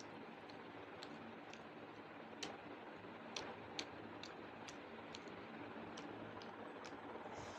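Faint eating sounds: a string of soft, irregularly spaced clicks, roughly one or two a second, over a faint steady hum.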